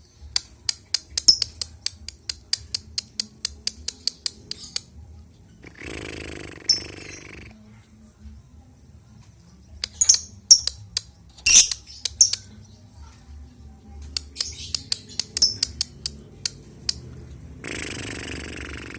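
Albino lovebird chirping in rapid runs of short, sharp high-pitched calls, with a few louder squawks around the middle. Twice, a noisy rustle lasting about a second and a half breaks in, once before the middle and once near the end.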